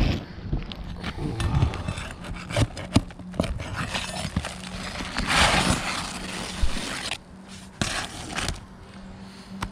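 Hand tools working on asphalt roof shingles: irregular taps, knocks and scrapes, with one longer scrape about five seconds in.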